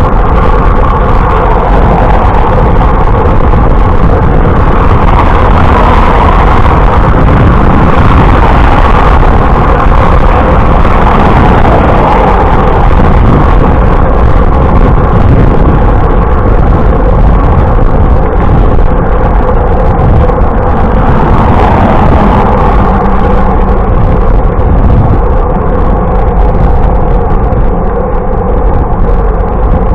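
Loud, steady wind rush and road noise on the camera's microphone while riding a bicycle, with no break or change.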